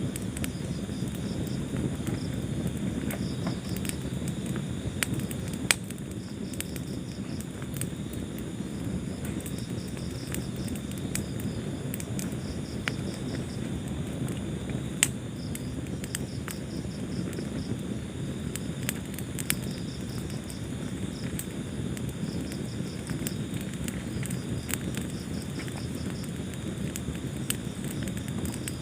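Wood fire in a fireplace crackling, with frequent small clicks and a few sharper pops over a low, steady rumble of flames. A high, pulsing chirp repeats in the background throughout.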